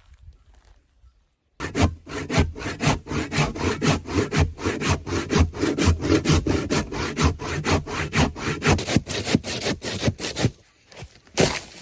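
Hand saw cutting through wood in quick, even back-and-forth strokes, about four a second. It starts about a second and a half in, stops briefly near the end, then starts again.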